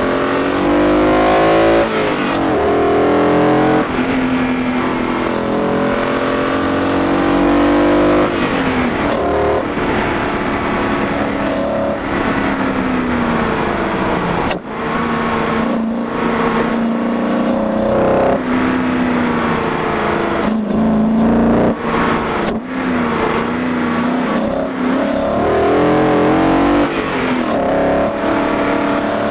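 BMW M60 V8 swapped into a BMW E30, heard through a microphone at the intake while driving. The engine pulls up through the revs and drops back at each gear change, several times in quick succession at the start, easing off in the middle and climbing again near the end.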